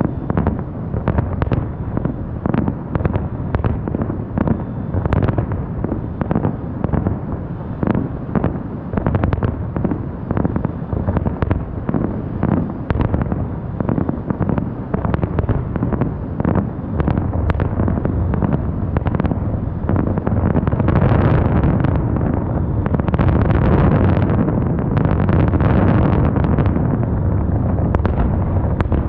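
Aerial fireworks bursting in rapid succession, a steady run of sharp bangs. About twenty seconds in the bursts thicken into a dense, continuous barrage that is louder than before.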